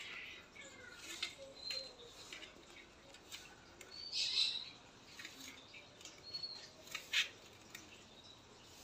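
A small bird chirping: short high chirps every couple of seconds, with scattered small clicks between them.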